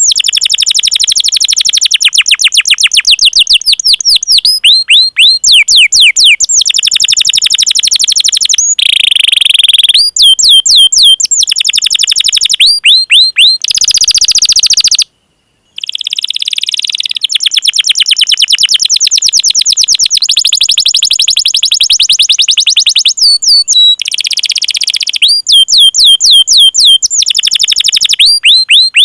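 Domestic canary singing loudly in fast runs of repeated, downward-sweeping chirps ('cuit cuit'), phrase after phrase with short breaks, and cutting out briefly about halfway through.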